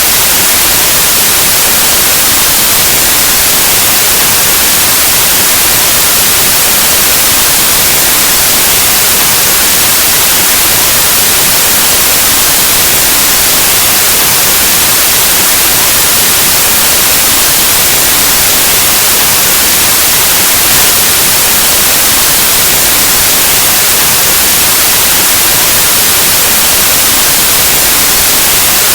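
Steady, loud white noise: an even hiss like analog TV or radio static, unchanging throughout.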